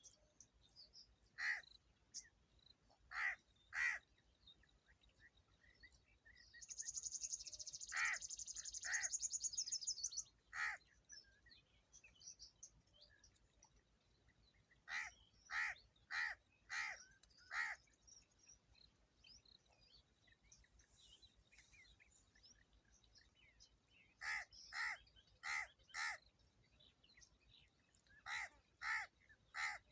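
Corvid cawing: short harsh caws given singly or in runs of up to five, with pauses of several seconds between runs. A high buzzing trill sounds in the background for about three seconds, a quarter of the way through.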